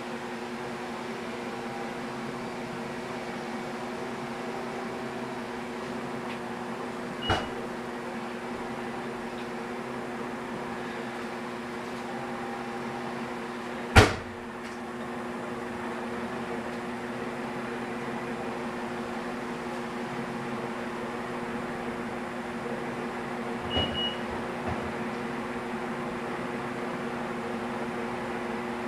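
Canarm CP36 36-inch industrial ceiling fan running on low, its motor humming steadily with several steady tones; the hum comes from running it on a solid-state speed control. A sharp click about halfway through, and a fainter one earlier.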